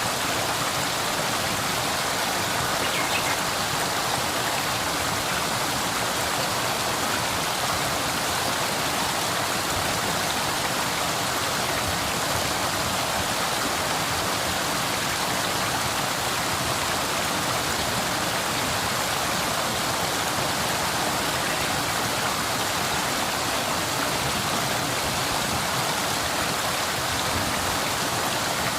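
River water flowing over rocks, a steady rushing and splashing with no change.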